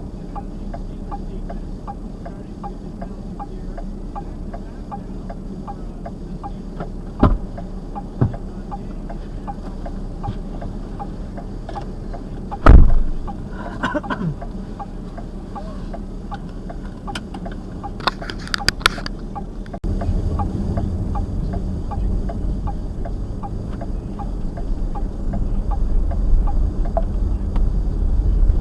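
Car engine running with a steady low hum and a regular ticking at about two a second. A few thumps come through, the loudest about 13 seconds in. From about 20 seconds in the low engine rumble grows louder.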